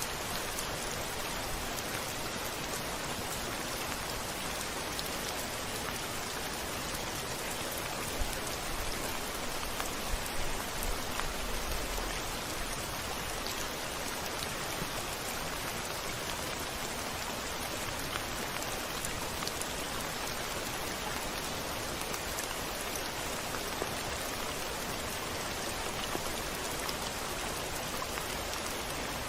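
Steady rain falling, an even hiss of drops, with a brief low rumble of thunder about ten seconds in.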